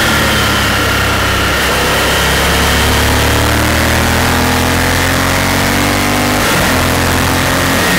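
Honda Varadero's V-twin engine running at road speed, its pitch rising and falling gently with the throttle, under steady wind rush. There is a brief dip in the engine note about six and a half seconds in.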